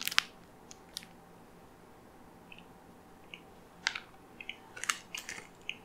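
A person biting into and chewing a Choco Pie with the mouth close to the microphone: a few faint, scattered mouth clicks and smacks, most of them in the second half.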